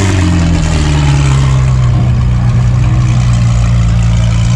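A loud car engine: its note falls away in the first second after a rev, then holds a steady pitch.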